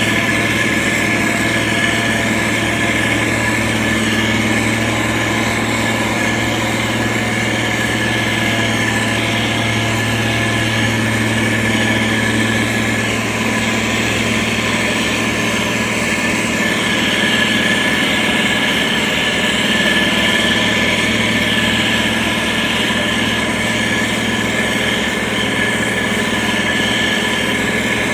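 Diesel engine of a SANY STG190C-8S motor grader running steadily, a continuous engine drone with a steady whine above it.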